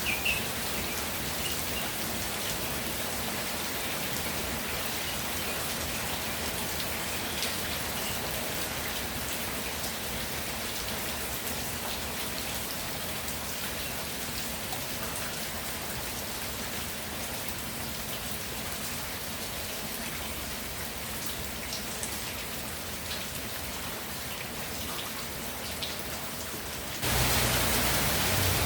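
Steady rainfall, an even hiss with scattered drop ticks. About a second and a half before the end it abruptly turns louder and fuller.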